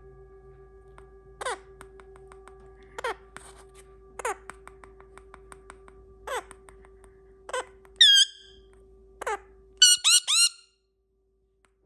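Parrot giving short squeaky calls that drop in pitch, one every second or so, then a louder call a little after eight seconds and a quick run of five shrill squeaks near the end. A faint run of quick ticks sits under the calls in the middle, and a faint steady hum stops near the end.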